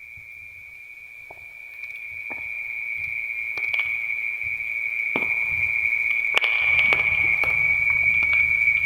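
Wood fire crackling, with scattered sharp pops that grow louder and a low rumble of the burning that builds over the last few seconds. A steady high-pitched whistling tone runs under it throughout and is the loudest thing heard.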